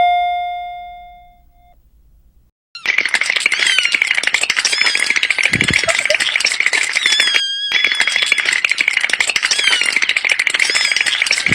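A doorbell chime rings out and fades. After a short pause, a loud, dense rattling noise full of high squeaky chirps starts and runs on, broken once for an instant about halfway through.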